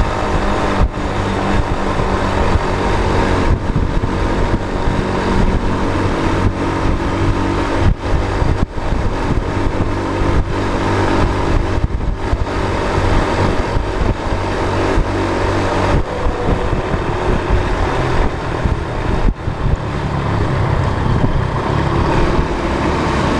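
A motor vehicle's engine running steadily while driving on the road, with tyre and wind noise. The engine note shifts somewhat about three quarters of the way through.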